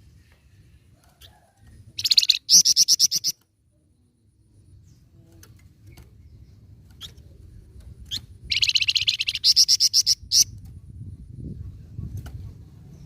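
A songbird kept as a 'flamboyan' bird singing in two loud bursts of fast, rapidly repeated high notes, about two seconds in and again past the middle.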